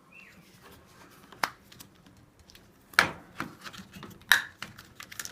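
Plastic and metal clicks and knocks of a washing machine's door lock being worked loose by hand, with the loudest knocks about a second and a half, three seconds and four seconds in.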